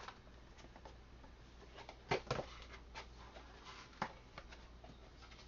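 Scattered clicks and knocks of a small kitchen gadget being handled and tried out, loudest a pair of knocks a little over two seconds in and a sharp click near four seconds, over a low steady hum.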